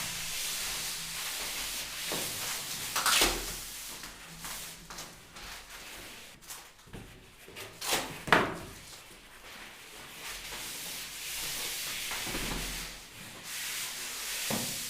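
Pipe insulation sleeve being slid along a pipe: a steady rubbing, scraping noise with a few louder swishes, the strongest about three and eight seconds in.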